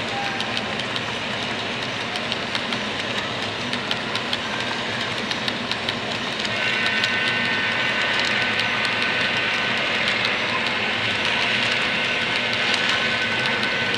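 HO-scale model train running on the layout: a steady rumble with many small clicks of wheels on the track. About halfway through it gets a little louder and a steady high, multi-note tone comes in and holds to the end.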